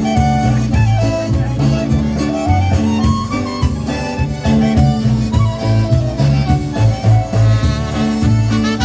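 Live polka band playing an instrumental number, with a steady bass beat.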